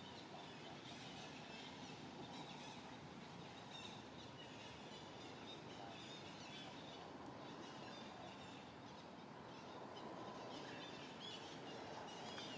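Faint outdoor ambience: a steady background hiss with faint, scattered high chirps.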